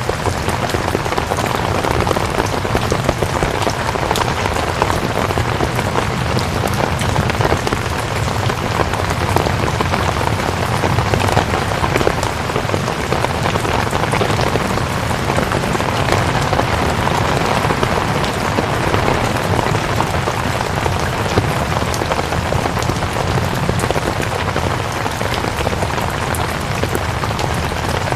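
Steady rain falling: a dense, even hiss dotted with many small drop ticks, holding level without a break.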